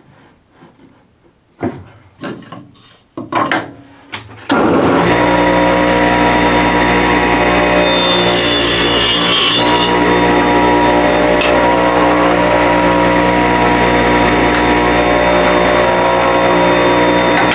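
A few clicks and knocks as the saw is adjusted, then about four and a half seconds in an electric saw starts up and runs with a steady hum. Around eight seconds in the blade cuts through a cedar fence board for about two seconds, adding a high hiss.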